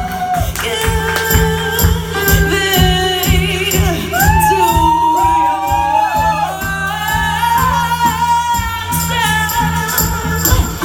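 Live song performance: a steady rhythmic beat of low strikes with a voice singing wordless lines that slide up and down in pitch.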